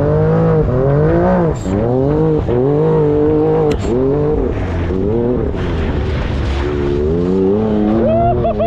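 Turbocharged Can-Am Maverick X3 UTV engine revving up and falling back over and over, the pitch rising and dropping about once a second, as the machine is driven hard off-road.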